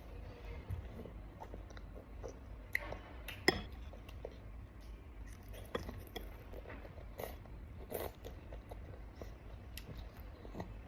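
Eating at close range: soft chewing with scattered small clicks and taps, likely of utensils on dishes; the sharpest click comes about three and a half seconds in.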